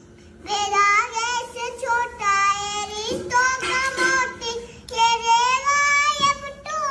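A talking parrot vocalising in a high, voice-like tone: several drawn-out phrases with gliding pitch, much like a child singing.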